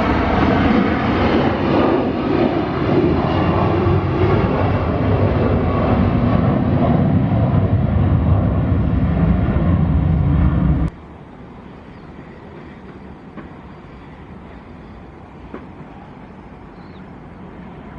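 Jet airliner engines running loud and close, a steady rush with a whine over it. It cuts off abruptly about eleven seconds in, leaving a much quieter steady background.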